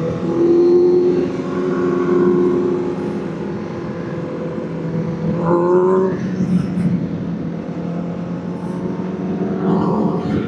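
Vehicle engine running at a steady speed under road noise, with a short rise in pitch about five and a half seconds in.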